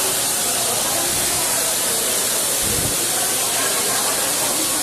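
Heavy rain pouring down in a thunderstorm, a steady dense hiss, with a brief low thump about two and a half seconds in.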